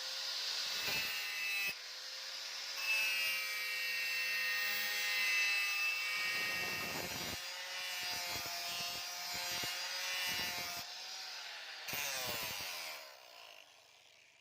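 A power tool grinding a steel blade, a scraping, rasping noise with a wavering whine. Near the end the motor's pitch falls as it winds down and the sound fades out.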